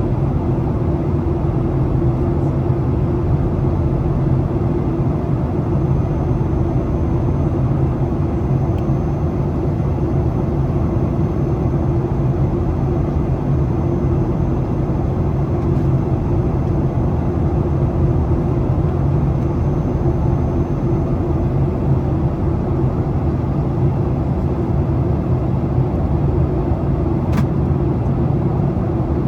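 Steady cabin noise of a Boeing 737 airliner in flight on approach: a constant low engine drone and airflow rumble. A faint high whine runs through the middle, and there is one short click near the end.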